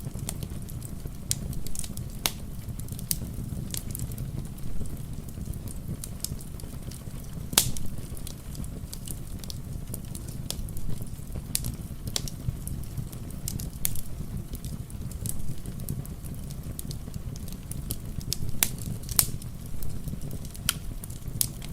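Wood fire crackling: irregular sharp pops and snaps over a steady low rumble, with one louder pop about seven and a half seconds in. A soft patter of rain runs behind it.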